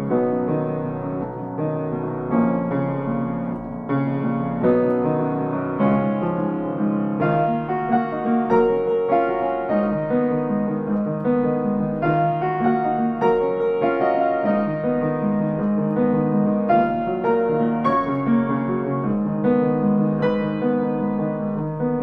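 Instrumental piano music: a steady flow of struck notes over sustained lower chords.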